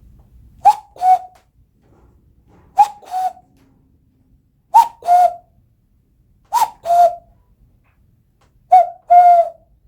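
Cupped-hand whistle blown to imitate a common cuckoo: five two-note 'cuck-oo' calls, each a higher note dropping to a lower one, repeated about every two seconds.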